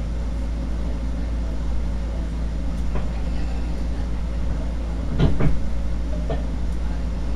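Long Island Rail Road train running, heard from inside a passenger car: a steady low rumble and hum, with a few short knocks and clatters, the loudest cluster about five seconds in.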